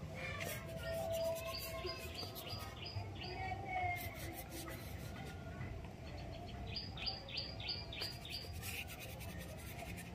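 Birds chirping in two runs of quick repeated high notes, about four a second, with the light scratch of a paintbrush on watercolour paper between them.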